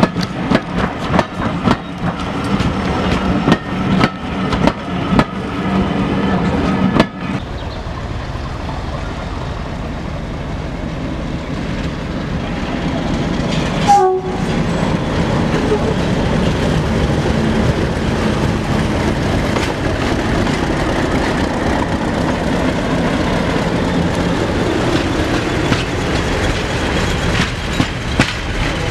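Train coaches rolling past close by, wheels clicking over the rail joints. Then a diesel locomotive approaching and running past with its engine running, a steady rumble that grows a little louder toward the end.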